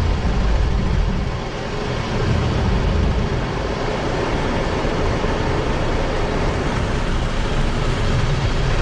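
Automatic car wash machinery running: a loud, steady rushing noise over a low rumble, dipping briefly about a second and a half in.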